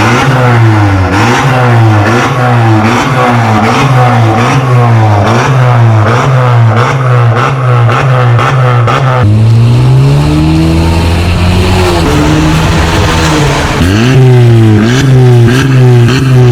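Honda Civic RS's 1.5-litre turbocharged four-cylinder revved through an XEX full-system aftermarket exhaust in quick repeated throttle blips, pitch rising and falling a little more than once a second. Near the middle it switches to one longer, slower rev, and then the quick blips resume.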